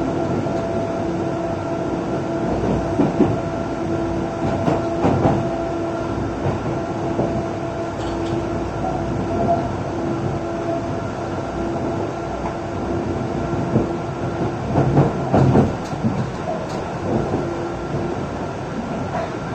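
MBTA subway train running, with a steady rumble and a steady whine, and wheels clacking over rail joints in short clusters several times.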